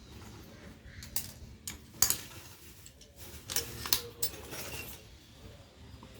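A series of sharp clicks and light metallic clatter, as of small metal tools or parts being handled, loudest about two seconds in, with another cluster a little before the four-second mark.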